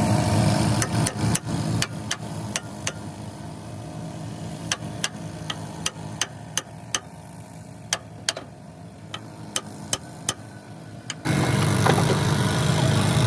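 An engine running steadily, falling away after a second or two; then a string of sharp, irregular taps or knocks, roughly one or two a second, over a quieter background. The engine sound comes back abruptly near the end.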